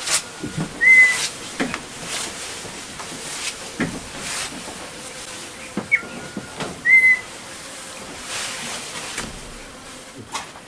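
Two short whistled bird calls about six seconds apart. Each is a quick upward note followed by a brief, slightly arched whistle. Under them is a soft rushing hiss that swells and fades.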